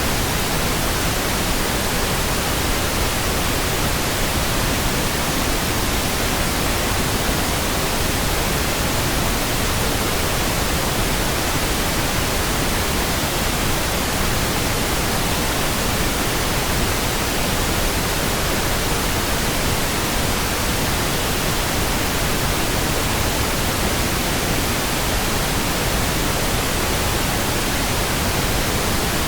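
Steady pink noise: an even, unchanging hiss spread across all pitches, with no changes or breaks.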